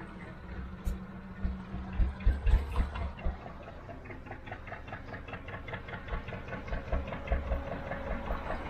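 Gardner 2LW two-cylinder diesel engine of a narrowboat running slowly with a steady, regular beat, with irregular low thumps over it.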